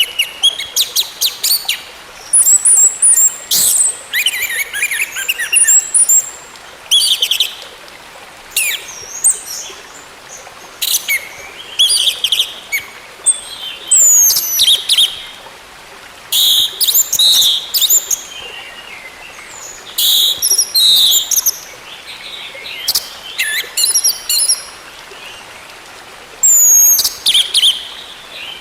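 Orange-headed thrush singing: a run of varied phrases of quick chirps, trills and falling whistles, each a second or two long with short pauses between.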